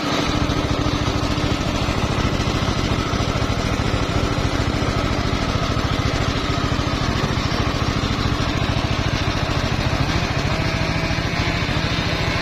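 Engine of a homemade circular-saw sawmill running steadily, with a fast, even pulsing beat.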